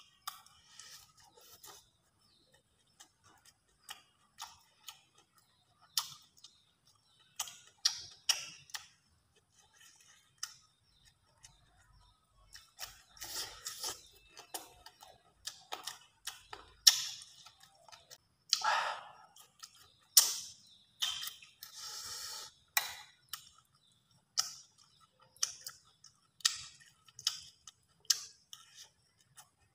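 Close-miked eating: chewing and wet mouth clicks and smacks, coming irregularly, with a few louder bites and occasional taps of a metal spoon. The sounds are busiest and loudest for a stretch in the middle.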